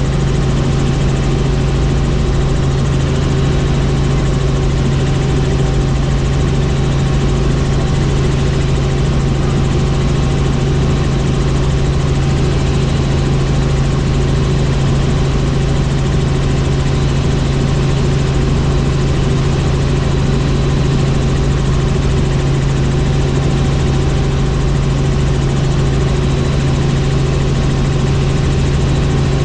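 Helicopter in flight: a loud, steady drone of engine and rotor with a strong low hum and a few steady higher tones, unchanging throughout.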